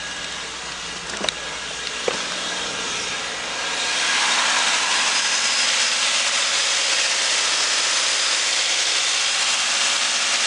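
2014 Subaru XV's FB20 2-litre flat-four idling steadily. There is a click about a second in and another about two seconds in. About four seconds in, a louder steady hiss joins and continues.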